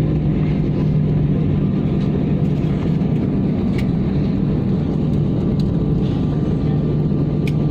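Airliner cabin noise on the ground after landing: a steady engine drone with a strong low hum, and a few faint clicks.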